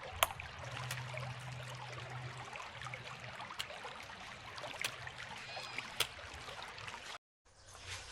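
Small creek trickling, a steady wash of running water with a few sharp clicks through it; the sound cuts out briefly near the end.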